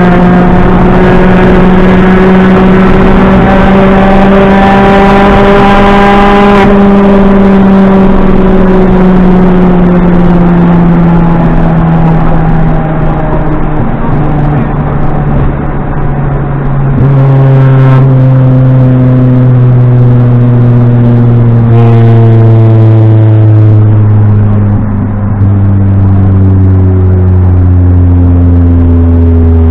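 Rally car engine heard from inside the cabin, running hard and loud with a high steady note. It then sinks gradually in pitch, broken by several abrupt gear changes.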